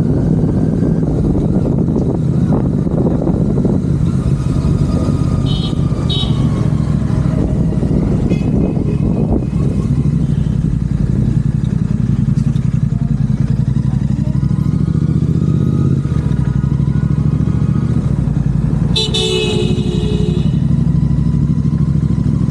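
Royal Enfield Continental GT 650 parallel-twin running steadily under way through aftermarket Red Rooster exhausts. A vehicle horn sounds twice, briefly about five seconds in and longer near the end.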